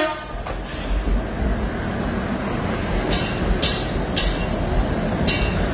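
Diesel multiple-unit commuter train moving along the platform with a steady low rumble. From about halfway through, a regular high hiss or tick comes roughly twice a second.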